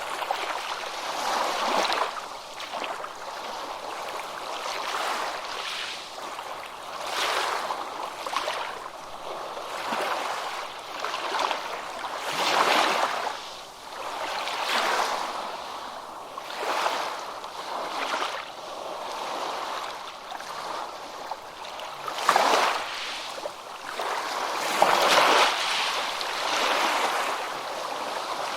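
Ocean waves breaking and washing up a beach in a continuous hiss of surf, swelling and ebbing every two to three seconds.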